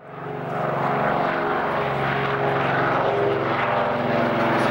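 The two radial piston engines of a de Havilland Canada DHC-4 Caribou running steadily as the propeller aircraft passes, fading in over about the first second.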